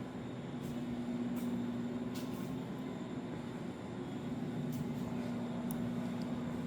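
Steady mechanical hum with a held low tone and a few faint ticks.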